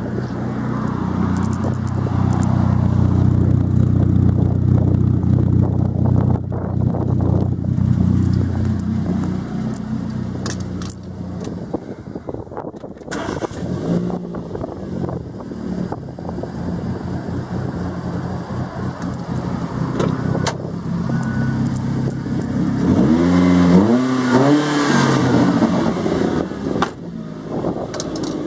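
Kia Rio 1344cc petrol engine running with a steady, fairly high note for about the first ten seconds, then dropping lower and running unevenly, with two or three quick revs rising and falling near the end. It is an engine that will not run correctly and revs itself, which the owner describes as over-revving.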